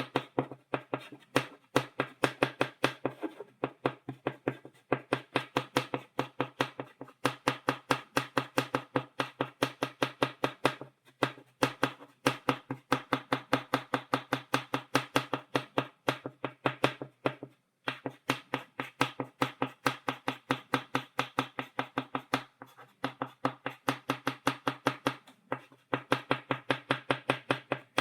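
Chalk tapped rapidly against a blackboard, dotting it: a fast run of sharp taps, several a second, broken by brief pauses.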